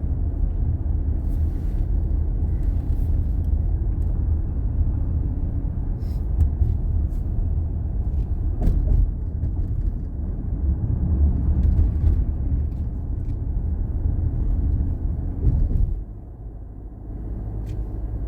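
Steady road and engine rumble heard from inside a moving car, dropping noticeably in level near the end.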